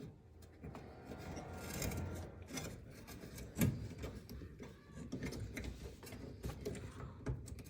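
Hands working on oven parts: irregular rubbing and scraping with scattered small clicks, and one sharp knock about three and a half seconds in.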